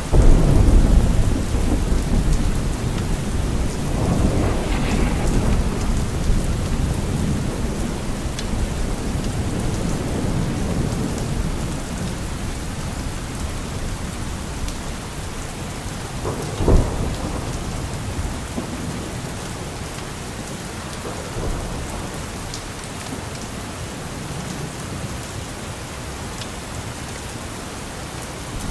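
Steady rain with thunder: a deep rumble swells right at the start and fades over several seconds, and a short, sharp thunderclap comes a little past halfway.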